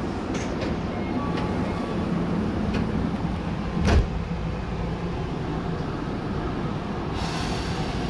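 Tokyu 8500 series electric train running, heard from inside the car: a steady rumble of wheels and underfloor equipment, with a single sharp clunk about four seconds in and a hiss that starts near the end.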